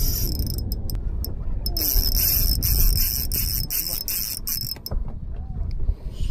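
Fishing reel's drag screaming as a hooked fish strips line and dives for the bottom under the boat: a high-pitched buzz in stretches, the longest from about one and a half seconds in to nearly five, over a steady low rumble.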